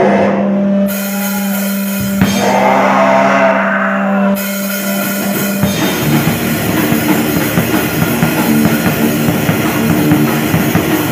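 Rock song playing. It opens over a steady low held note, then the full band with drum kit and cymbals comes in about six seconds in and keeps going.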